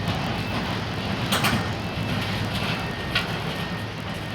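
Heavy demolition machinery running with a steady low engine drone, with two sharp knocks, about a second and a half in and again near three seconds.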